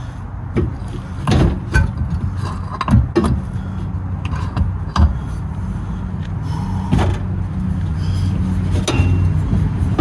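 Scattered sharp metal knocks and clanks from hand work refitting a car's hub and driveshaft, over a steady low hum.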